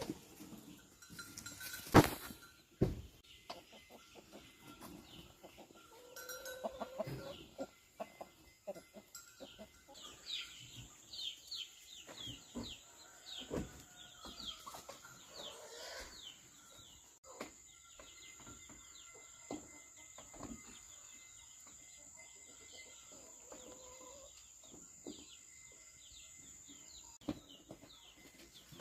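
Farmyard sounds: chickens clucking and a goat bleating, with many short high chirps in the middle and a sharp knock about two seconds in.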